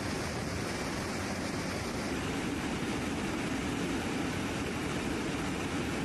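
Aircraft engine noise: a steady, even rushing drone with no clear pitch, holding at one level throughout.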